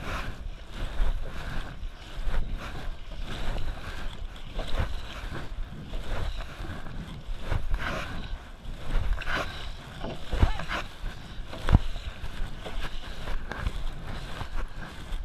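Wind buffeting the microphone over water splashing and sloshing around a canoe at sea, with a few sharp knocks.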